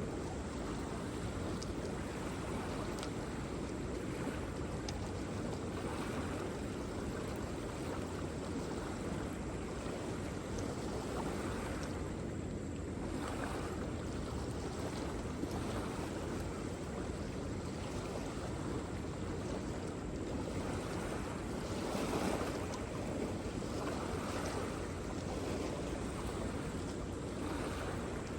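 Waterfall: a steady rush of falling water, deep and full, swelling slightly now and then.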